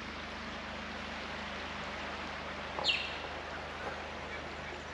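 Quiet outdoor bush ambience with a faint steady low hum, and one short bird call falling in pitch about three seconds in.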